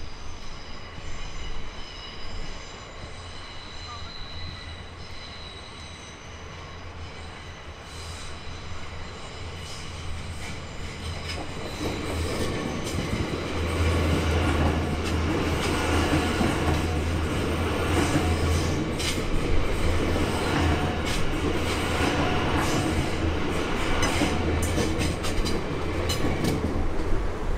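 Melbourne High Capacity Metro Train, a new electric suburban train, passing close by. It grows louder from about halfway through into a deep rumble with many sharp clicks of wheels over the track, while a high thin squeal heard at first fades under it.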